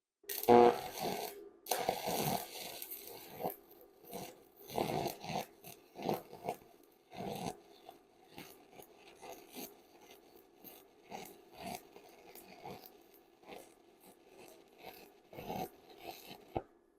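Stick-welding arc from a 7018 electrode crackling and sputtering in irregular bursts as the rod is scratched to strike and keep the arc, catching briefly and dying out. This is the hard starting typical of 7018, whose flux glazes over the rod tip.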